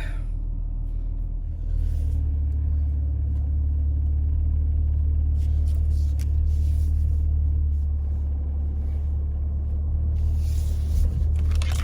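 Low, steady rumble of a Jeep Cherokee running; it gets a little louder about two seconds in and then holds steady.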